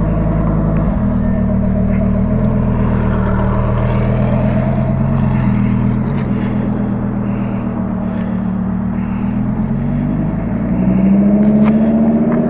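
Yamaha R6 inline-four motorcycle engine running at a steady pitch under the rider, rising in pitch near the end as it speeds up.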